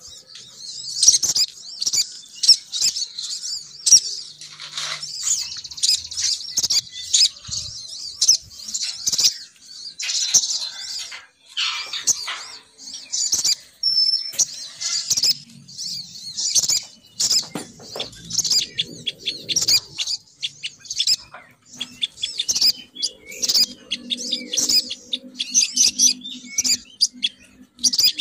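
Female sogon bird lure call: dense, rapid, high-pitched chirps and twitters that repeat without a break, used to draw male sogon birds down. A low, steady hum sits underneath in the second half.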